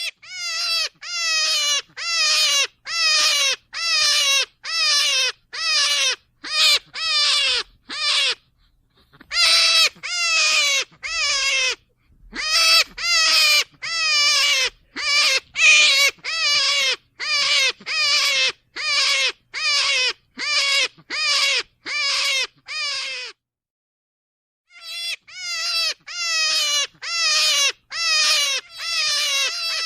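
Rabbit calls: short high-pitched squeals, each falling in pitch, repeated about one and a half times a second in long runs, with brief pauses about eight seconds in and a longer one near the end.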